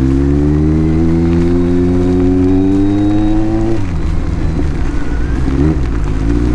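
Motorcycle engine pulling hard, its note rising steadily for nearly four seconds as the bike accelerates. The note then drops off abruptly and turns uneven for the rest of the stretch, heard close through a helmet microphone.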